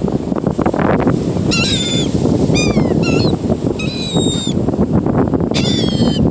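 Gulls begging for food, giving four quick series of short calls, over a steady rush of wind on the microphone and surf.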